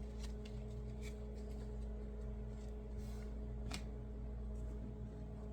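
Steady low electrical hum with a few light clicks and a brief soft rustle from handling trading cards and their packaging; the sharpest click comes about three-quarters of the way through.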